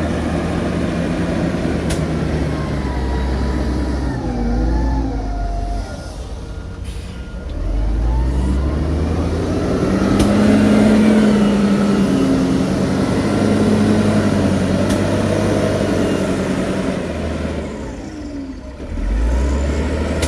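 Heavy diesel engine of earthmoving machinery running under changing load. It drops off twice, about six seconds in and near the end, and picks back up each time.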